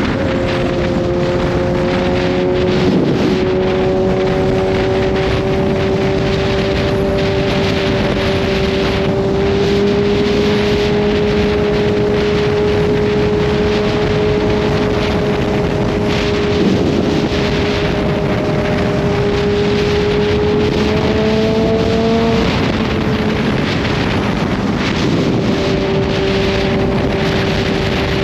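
Kawasaki Z H2's supercharged inline-four engine at a steady cruise, its note climbing slowly and dropping once about two-thirds of the way through, under steady wind noise on the microphone.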